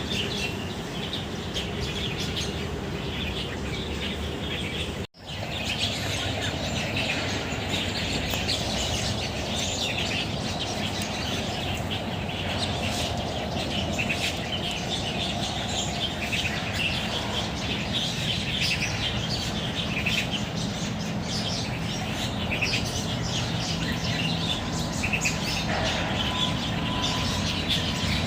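Many birds chirping and calling together in the trees, a dense, continuous chorus over a steady low background hum. The sound cuts out for a split second about five seconds in.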